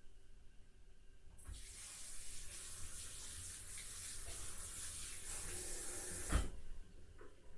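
Water running steadily, like a tap filling a sink or container, for about five seconds, then cut off with a thump.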